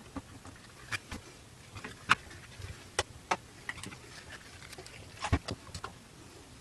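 Irregular light clicks and knocks, about a dozen, unevenly spaced, with the loudest about two seconds in and about five seconds in.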